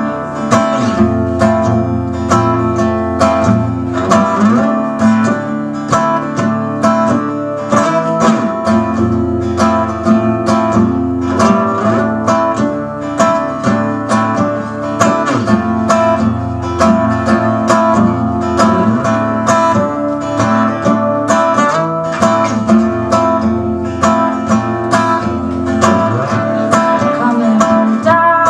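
Acoustic guitar picked in a steady rhythm: the instrumental opening of a song, with no singing yet.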